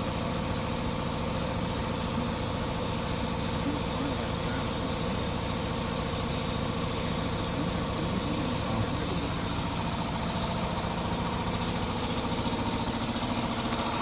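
Electric drive of a longitudinal seam welder's carriage running steadily as the carriage travels backward along its track. It is a constant machine hum made of several steady tones.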